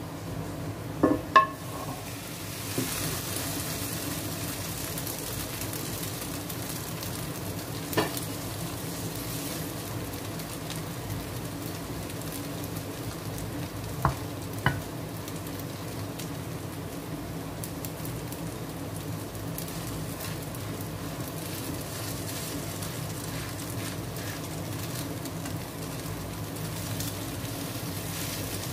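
Egg, corn and cabbage omelette sizzling steadily in oil in a nonstick frying pan. The sizzling strengthens about three seconds in. A few sharp clacks against the pan come through it: two loud ones about a second in, one about eight seconds in, and two close together around fourteen seconds.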